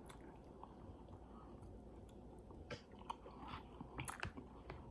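Faint mouth sounds of a person chewing food, with a few short, sharp clicks in the second half.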